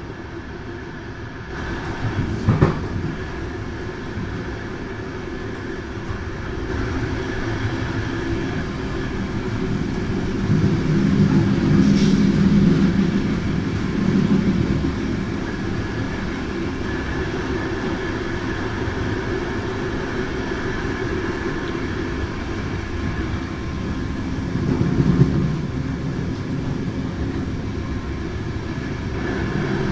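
Passenger train running on mountain track, heard at the rear door of the carriage: a steady rumble of wheels on rails, with a sharp knock about two and a half seconds in and swells in loudness around twelve and twenty-five seconds.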